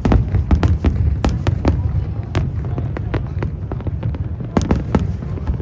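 Aerial fireworks shells bursting in quick, irregular succession: many sharp bangs, at times two or three a second, over a continuous low rumble of booms.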